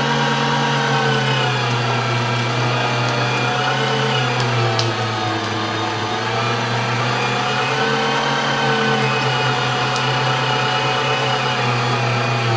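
STX Turboforce 3000 electric meat grinder running as it grinds strips of pork rib meat. Its motor hum is steady but dips in pitch now and then as it bogs down a little under the load.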